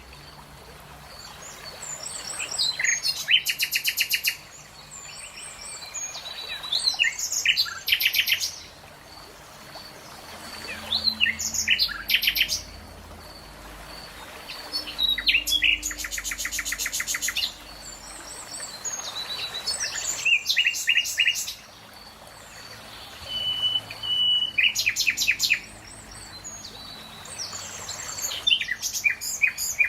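A songbird singing, about seven separate phrases roughly four seconds apart, each a couple of seconds of chirps and fast trills.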